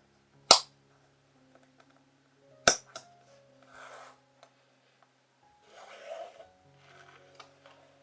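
Two sharp clicks about two seconds apart, the second followed at once by a smaller one, from keyboard parts being handled, then two brief rustling scrapes, over background music.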